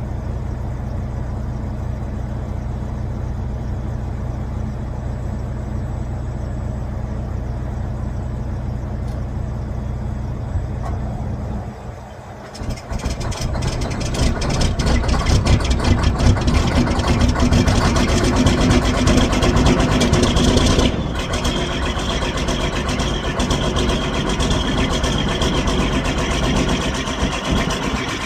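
A steady low hum for about the first twelve seconds, then the Detroit Diesel Series 60 14.0-litre inline-six diesel is started cold at −20 °C and runs loud and rough. About two-thirds of the way in its sound drops suddenly and it runs on more steadily at idle.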